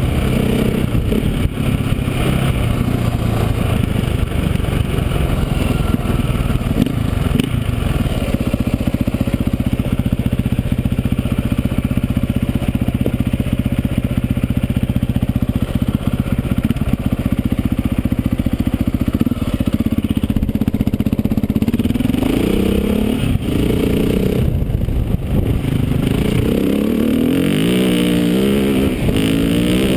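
KTM 400 dirt bike's single-cylinder engine heard from on board, running steadily at riding speed, then revving up and down through gear changes over the last several seconds.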